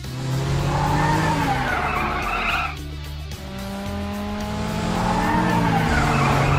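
Cartoon car sound effect, a tyre skid with engine, heard twice in long swells, over background music.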